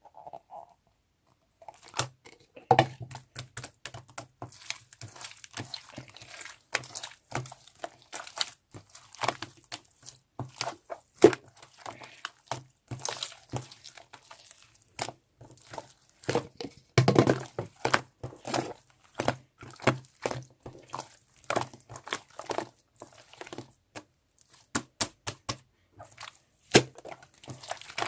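Irregular rustling, crinkling and tapping noises, many short knocks and scrapes close to the microphone.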